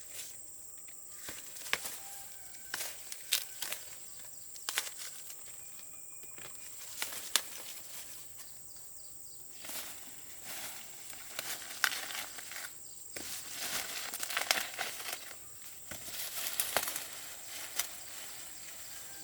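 Irregular sharp snaps and crinkling rustles of dry material being handled, coming in scattered clusters, over a steady faint high-pitched tone.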